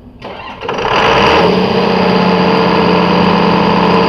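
Clarke diesel fire pump engine cranked on its first starter motor, catching just under a second in and quickly settling into steady running.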